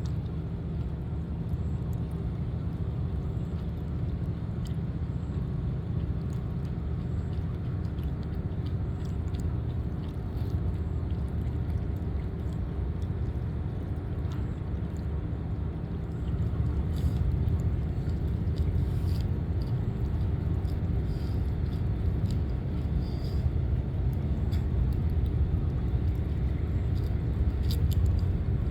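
Steady low engine rumble, growing a little louder about halfway through.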